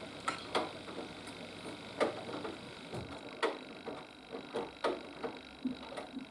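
Haier HW120 front-loading washing machine running its wash, the drum turning with a steady hum and a faint high whine. Irregular knocks and clicks from the tumbling laundry come about a dozen times, unevenly spaced.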